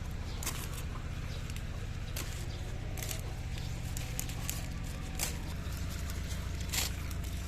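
Scattered sharp clicks and crackles, a few of them louder, over a steady low hum.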